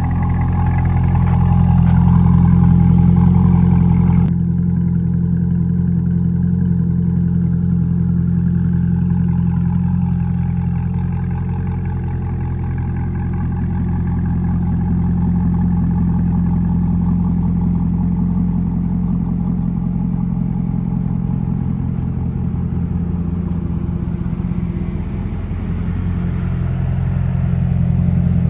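Chevrolet Corvette E-Ray's 6.2-litre V8 idling steadily through an AWE Tuning track exhaust, a deep, even burble with no revving. About four seconds in the sound suddenly turns duller, losing its upper edge.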